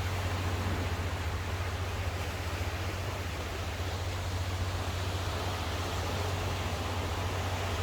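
Sea surf making a steady, even rushing noise with a constant low rumble underneath.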